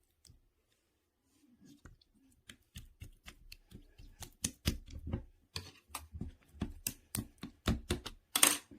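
Pudding-jelly slime being squished and poked by hand, giving a run of wet clicks and pops. The clicks are sparse at first, then come about two or three a second and grow louder, with the loudest pop near the end.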